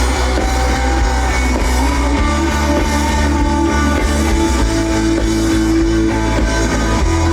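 Live band playing loud pop-rock music, with guitar and a drum kit over a strong, steady bass.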